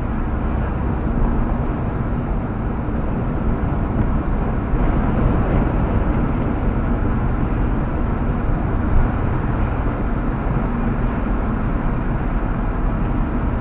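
Steady road noise inside a moving car's cabin: a low, even rumble of tyres and engine with no distinct events.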